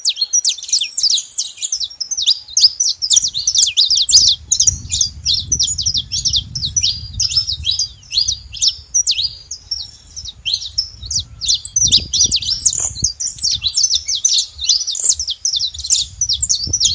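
Saffron finch singing continuously: a fast, unbroken stream of high, sharp chirping notes. A faint low rumble runs underneath for much of the song.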